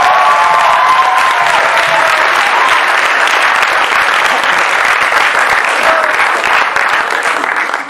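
Audience in a hall applauding and laughing after a joke, with cheers and whoops over the clapping near the start; the applause dies away at the end.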